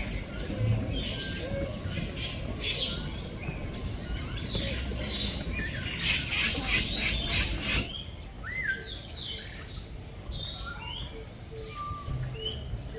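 Several aviary birds calling at once: short whistled and chirping calls, with a dense burst of chattering calls about six to eight seconds in, over a steady high-pitched tone.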